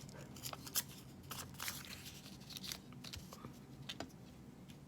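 Paper being torn and trimmed by hand: a quiet series of short, irregular crackles and rasps.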